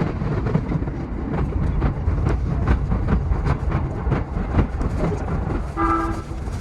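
E233-7000 series electric train running, with a steady rumble and a rapid, irregular clatter of wheel clicks over the rails. About six seconds in there is a short pitched tone.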